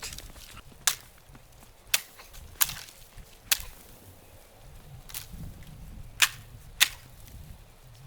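Sharp wooden whacks, about seven at uneven spacing: a wooden stick striking snow-laden tree branches to knock the wet snow off.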